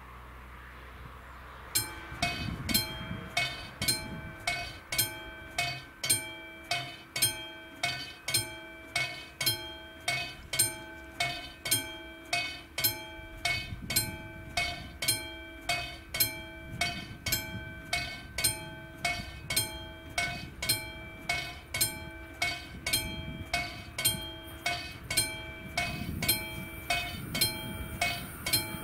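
Railway level crossing warning bell starting about two seconds in and ringing steadily, about one and a half strokes a second, the crossing's warning that a train is approaching.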